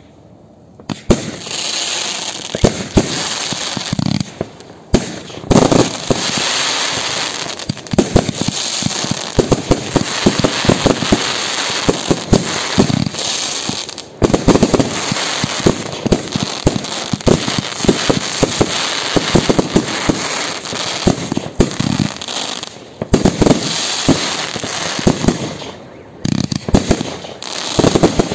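Professional fireworks display firing from multi-shot cakes and aerial shells: a rapid stream of launch thumps and bursts over constant crackling. It starts about a second in and keeps going with only brief lulls.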